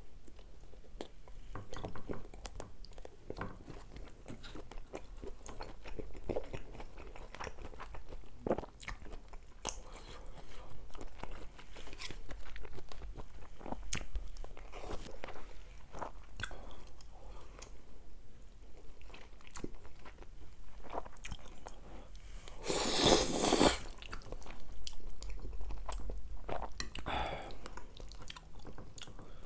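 Close-miked chewing and biting of food, with wet mouth clicks and small crunches. About three-quarters of the way through comes one louder, noisy burst lasting about a second and a half.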